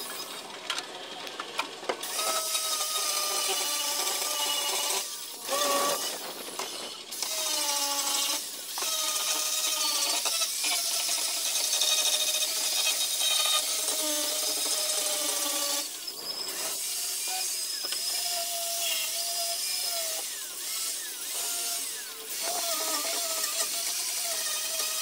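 Power drill running in repeated spurts of a few seconds, its whine rising and falling in pitch as the trigger is worked.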